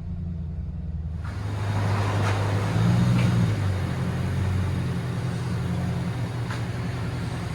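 2003 Ford Crown Victoria Police Interceptor's 4.6L V8 running through a dual exhaust with X-pipe and Dynomax race bullet mufflers, heard from inside the cabin: a steady idle with one brief rev about three seconds in.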